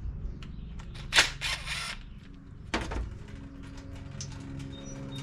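Small parts and tools being handled on a workbench during a mower carburetor teardown: scattered light clicks and knocks, a short hissing burst about a second in, and a second sharp noise near three seconds.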